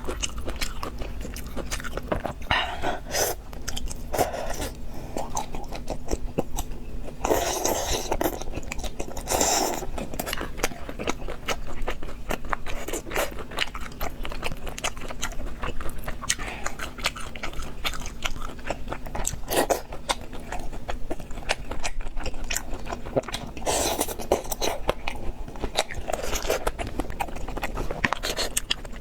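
Close-miked eating: steady chewing and biting with crunching mouth sounds, and a few louder, longer bursts now and then.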